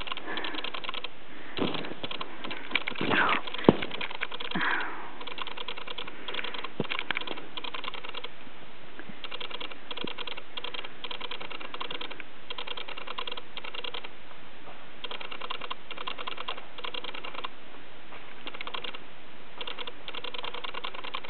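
Footsteps crunching through deep snow, each step a short burst of fine crackling, repeating steadily. A few short squeaks and a sharp knock come in the first few seconds.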